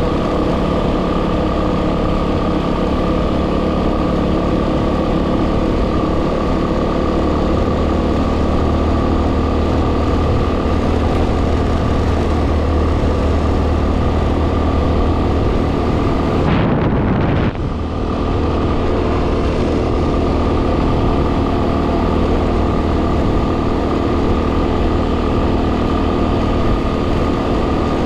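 Yamaha WR250R single-cylinder motorcycle engine running steadily while riding, with heavy wind noise on the microphone. The engine note and hiss dip briefly about two-thirds of the way through, then carry on as before.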